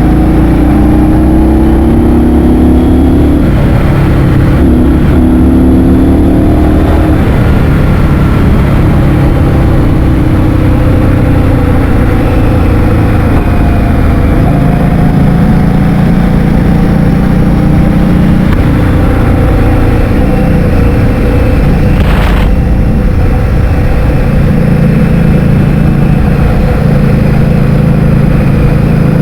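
Heavy wind buffeting on the microphone of a moving motor scooter, over the scooter's engine running with its pitch rising and falling as speed changes. A brief sharp noise comes about 22 seconds in.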